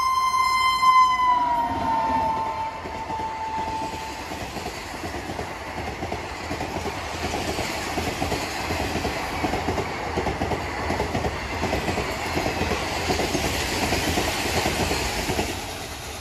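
Kisan Express passing at speed, about 110 km/h. The locomotive's horn sounds one steady high note that drops in pitch as it goes by and stops about four seconds in. Then the coaches rush past with a fast, even rattle of wheels on the rails, which falls away near the end.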